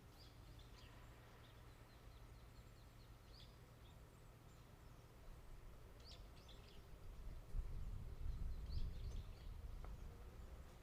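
Small birds chirping faintly outdoors in short, scattered calls, a few at a time, with a low rumble for a couple of seconds in the second half.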